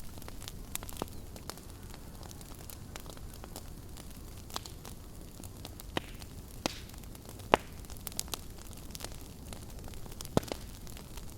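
Wood burning in a fireplace: irregular sharp crackles and pops over a steady low rumble, the loudest pops about seven and a half seconds and ten seconds in.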